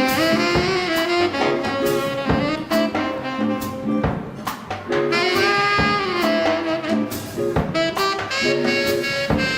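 A swing band playing live: saxophone and brass horns carry the tune over a drum kit keeping time.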